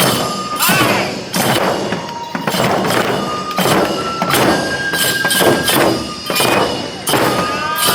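Neputa festival music: taiko drums beaten in a heavy, steady rhythm of about one to two strokes a second, with short held high notes of a bamboo flute over them.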